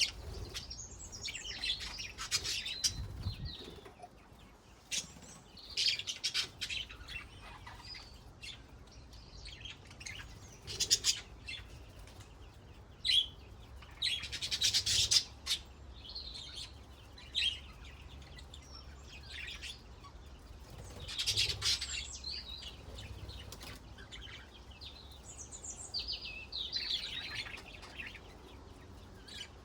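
Pet budgerigars chirping and warbling in irregular short bursts with brief pauses between, the busiest chatter coming in a few denser spells.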